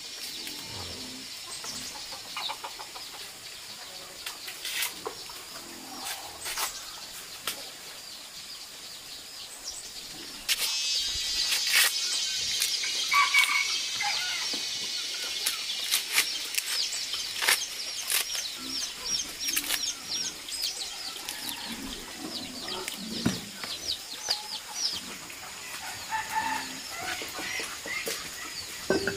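Birds chirping, a chorus of many short high calls that grows louder about ten seconds in, with scattered sharp clicks and knocks.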